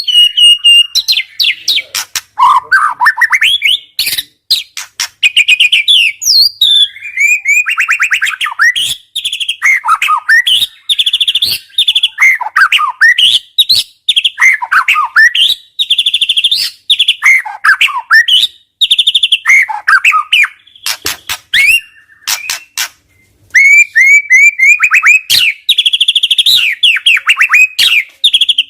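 White-rumped shama (murai batu) singing continuously: a loud, varied run of short whistled phrases, fast trills and sharp clicks delivered in rapid-fire bursts.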